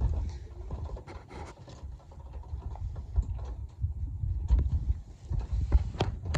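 Wind buffeting the microphone with an uneven low rumble, over scattered footsteps and light knocks, the sharpest knocks near the end.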